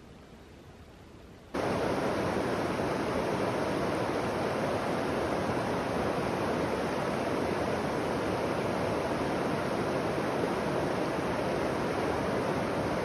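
Steady rushing noise that starts abruptly about a second and a half in, after a faint quiet background.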